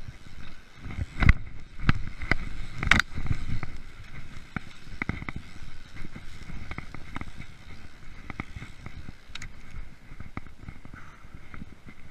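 Freeride mountain bike rattling over a rough forest trail: irregular knocks and clatter over steady tyre and rolling noise, with the hardest knocks in the first three seconds.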